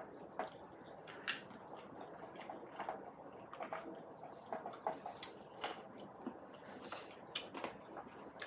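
Close-up eating sounds: quiet wet chewing and lip smacks, with irregular small clicks a few times a second, from someone eating chicken and dhido.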